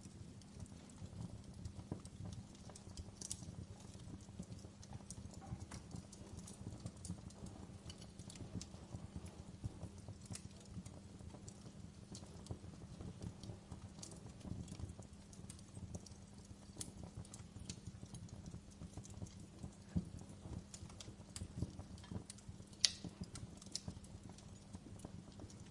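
Wood fire crackling in a fireplace: a dense low bed of small ticks with sharp pops scattered through it, one louder pop near the end.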